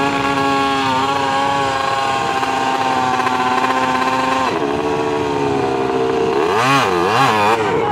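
Motocross dirt bike engines running at high revs, holding a steady pitch, then dropping off about four and a half seconds in. Near the end they rev up and down twice.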